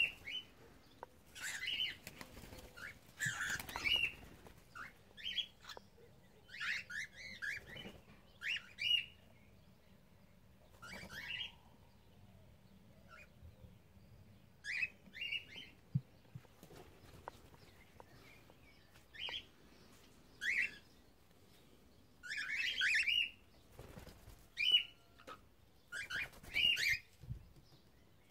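Cockatiels giving short chirping calls every second or two, with bursts of wing flapping in between.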